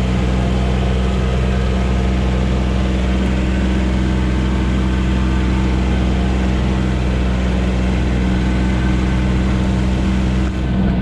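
Vehicle engine running steadily at an even speed, with a brief dip in level just before the end.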